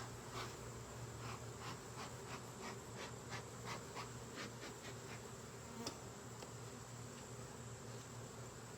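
Honeybees buzzing around an open hive, a steady low drone, with a run of short scratchy ticks about three a second during the first five seconds and one sharper click near six seconds.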